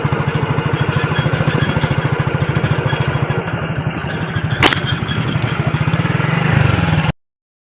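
An engine running steadily with a rapid, even pulse, with one sharp click about four and a half seconds in; the sound cuts off suddenly near the end.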